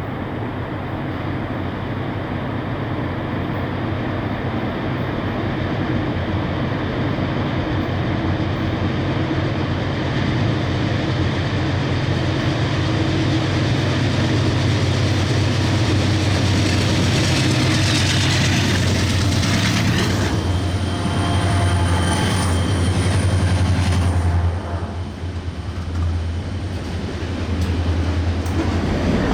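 Diesel freight locomotives working at wide-open throttle, their deep engine drone building as the train comes on and passes. Thin high squealing tones come in for a few seconds about two-thirds of the way in.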